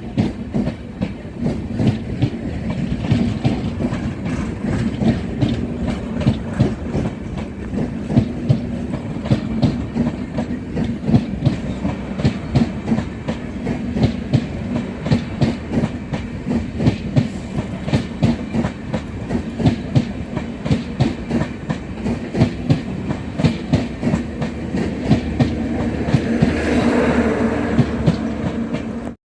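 Passenger express train's coach wheels clattering over the rail joints in a quick, continuous clickety-clack over a steady rumble and hum, swelling near the end before cutting off suddenly.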